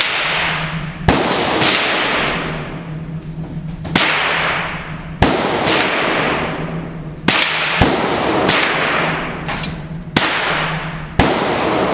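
Handgun shots at a shooting range: about eight sharp reports at irregular intervals of one to three seconds, each followed by a long echoing tail.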